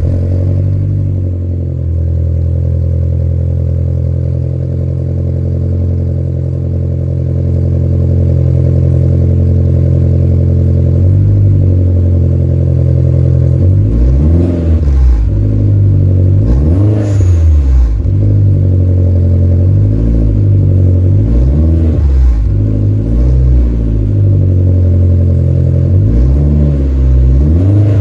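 VW Golf IV 1.8T 20V turbocharged four-cylinder engine running through a custom-made exhaust. It idles steadily for the first half, then is blipped in a string of short revs, the exhaust note rising and falling with each.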